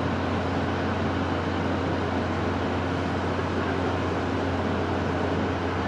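Steady wind noise, an even rushing with a constant low hum underneath, unchanging throughout.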